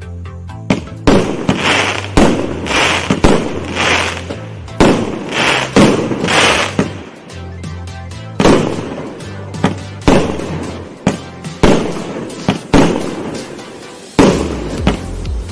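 A 1.2-inch consumer firework cake (battery) firing its shots in sequence, about one a second. Each shot is a sharp launch bang followed by crackling and hissing from the break in the air. Background music plays under it.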